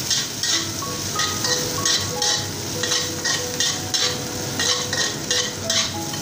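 Sliced garlic and chili sizzling in hot oil in a wok while a spatula stirs them. Background music with a melody of held notes plays throughout.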